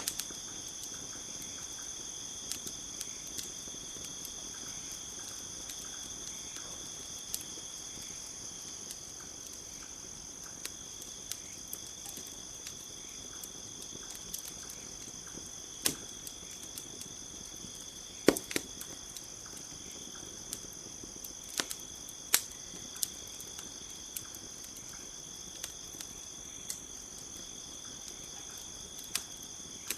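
Steady chorus of crickets with a campfire crackling: scattered sharp pops, a few of them louder midway through.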